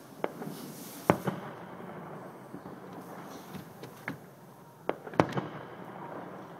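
Fireworks display: a series of sharp bangs from bursting shells over a constant crackle, the loudest bangs about a second in and again about five seconds in.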